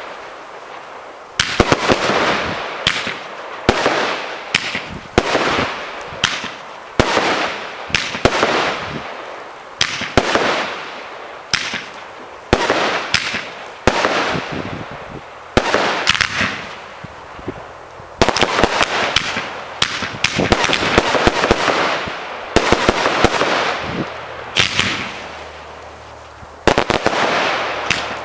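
Aerial fireworks firing in a steady sequence: a sharp bang about once a second, each with crackling and a fading tail. A denser flurry of shots comes near the end.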